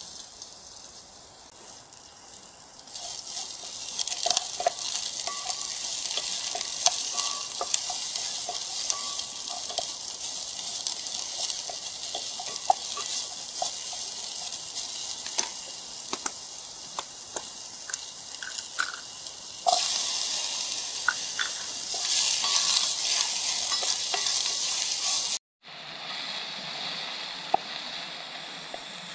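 Shrimp, chili and vegetables sizzling as they fry in an aluminium Trangia pot, stirred with a wooden spatula that knocks and scrapes against the pot. The sizzle grows louder about three seconds in and again past the middle, breaks off briefly near the end and comes back quieter.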